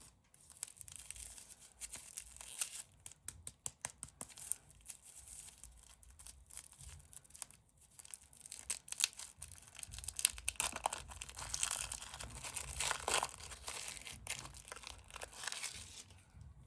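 Candy wrapper being crinkled and torn open close to the microphone: a long run of irregular crackling and tearing rustles that stops near the end.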